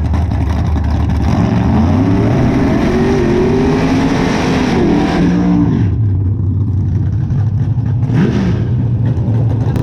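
A drag-racing car's engine at full throttle, its pitch climbing and then falling away. The roar cuts off about six seconds in, leaving a steady low engine rumble, with a brief sound near the end.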